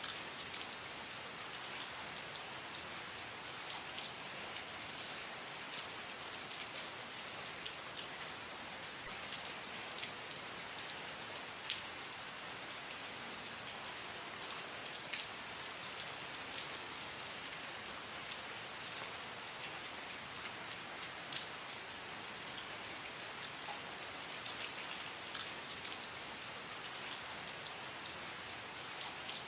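Steady rain falling on a hard surface, an even hiss thick with the ticks of individual drops.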